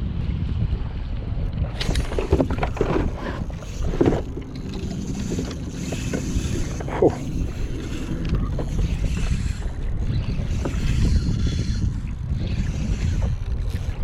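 Wind rumbling on the microphone on a kayak at sea; from about two seconds in, water splashing and a few sharp knocks.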